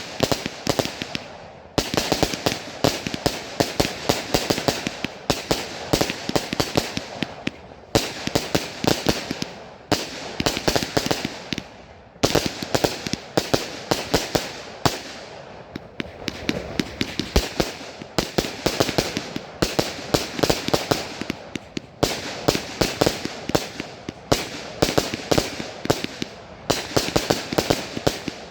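Consumer fireworks going off in quick succession: dense volleys of sharp bangs and crackles, with a fresh cluster of reports starting about every two seconds.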